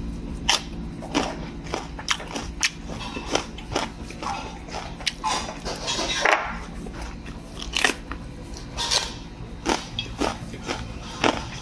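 Close-up chewing with many short, crisp crunches from bites of a raw green chili pepper.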